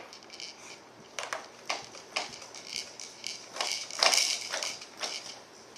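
Irregular plastic clicking and rattling from the toys on a Fisher-Price Rainforest Jumperoo as the baby bounces and bats at them, with a louder burst of rattling about four seconds in.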